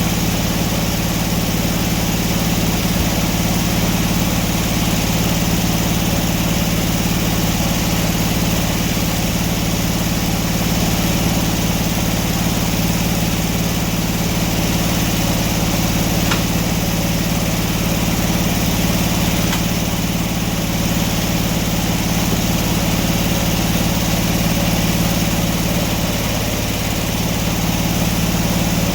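An engine running at a steady speed, its pitch and level unchanging throughout, with no revving or change of load.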